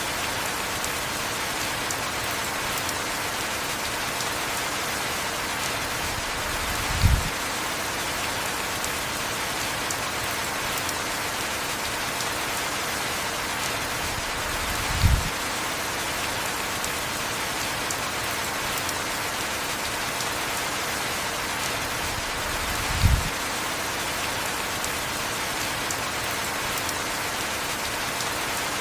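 Heavy rain falling steadily. A short, low thump comes three times, about eight seconds apart.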